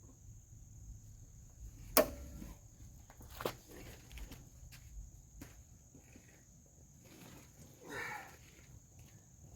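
A few scattered light clicks and knocks from hand work with tools on the push mower's wheel bracket, the sharpest about two seconds in. Behind them is a steady high chirring of crickets.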